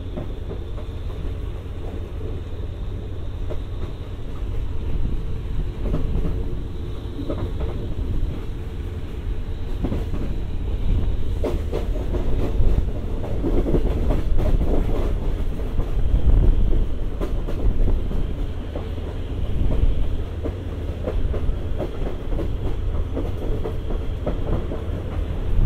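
Passenger train of the State Railway of Thailand running, heard from inside a carriage: a steady low rumble with the wheels clattering over rail joints, the clatter getting louder and busier from about ten seconds in.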